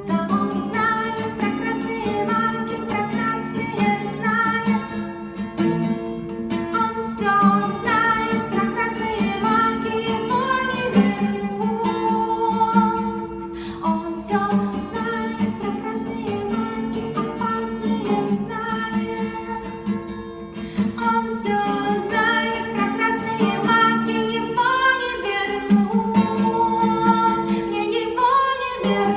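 A song played on acoustic guitar with a singing voice over it.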